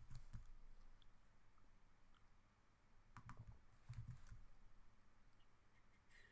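A few faint clicks at a computer, a pair about three seconds in and another about four seconds in, over near-silent room tone.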